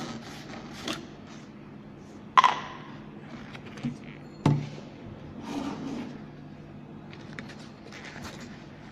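A few knocks and scrapes of objects being handled, two of them sharper and louder about two and a half and four and a half seconds in, over a steady low hum.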